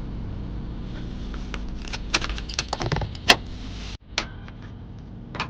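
Steady low hum of a first-generation Honda CR-V, heard from inside the cabin, with a run of clicks and rattles in the middle and one sharp click a little past three seconds. The hum drops suddenly about four seconds in, and a few lighter clicks follow.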